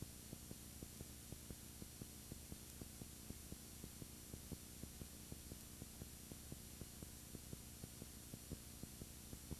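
Low electrical hum and hiss with a faint regular ticking, about six ticks a second: interference on the audio track of a damaged camera, not sound from the scene.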